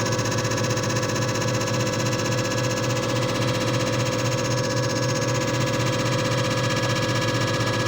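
JFJ Easy Pro disc repair machine running steadily: its motor spinning the disc against the repair pad, a constant hum with a steady whine over it.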